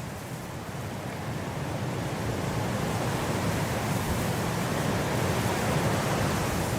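Blizzard wind blowing, a steady rushing noise that swells into a stronger gust over the first few seconds and then holds.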